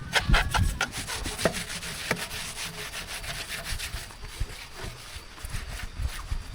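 Repeated rubbing strokes in quick succession, strongest in the first second or so, then fainter and more spaced out.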